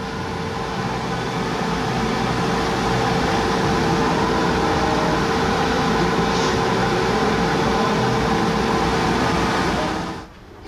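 Laser cutter's exhaust blower and air pump running with an even rushing noise and a steady hum, cutting off suddenly near the end.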